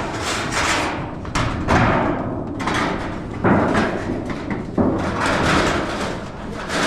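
Building work with a run of knocks and thuds, a few sharp bangs among them, over a steady noisy clatter, in keeping with long span metal roofing panels being handled.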